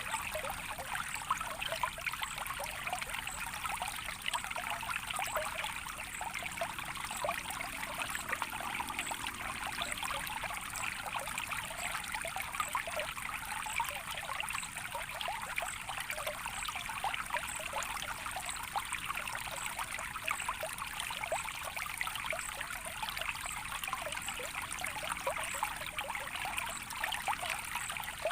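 Natural water stream trickling steadily: a continuous babble of small splashes with no change in flow.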